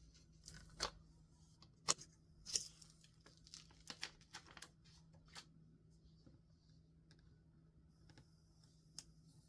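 Stationery being handled while a sticker is placed on a journal page: a few sharp paper clicks and taps, then a cluster of lighter ones and a last tap near the end, over a faint steady hum.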